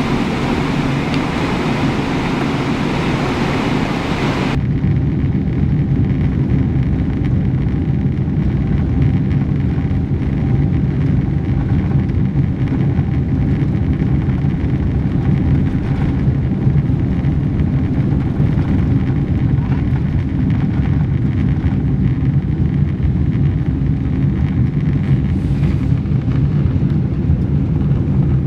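Steady, loud jet airliner cabin noise: engine drone and a deep rumble heard from inside the cabin. A higher hiss drops away suddenly about four or five seconds in.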